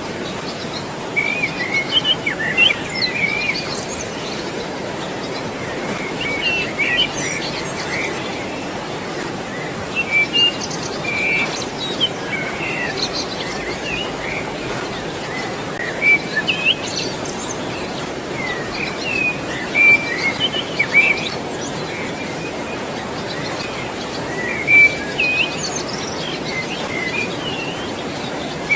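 Several birds chirping and whistling in short scattered calls over a steady rush of flowing water.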